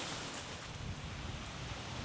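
Steady wind by the sea with a soft surf-like hiss, and low buffeting of the breeze on the microphone.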